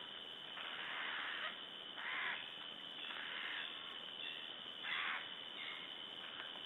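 Eurasian jay making harsh, rasping screech calls, about five short calls spaced irregularly.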